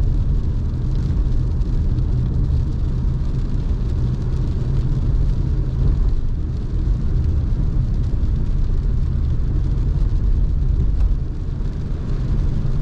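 Steady low rumble of a car driving, with engine and tyre noise heard from inside the cabin on a wet road.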